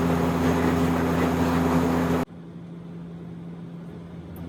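Steady airliner cabin noise: a loud engine drone carrying several steady low hums. A little over two seconds in it cuts off abruptly to a much quieter low hum.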